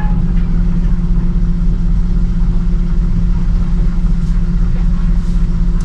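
A steady low motor rumble with a constant hum.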